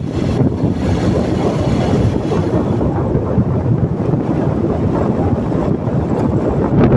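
Wind buffeting the microphone over the rumble of a moving vehicle on the road.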